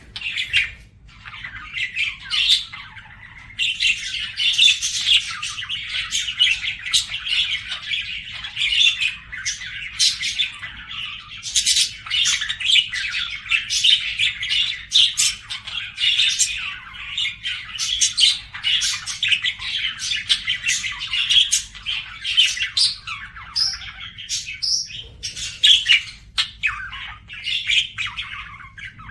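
Budgerigar warbling: a continuous chattering run of chirps, squawks and sharp clicks.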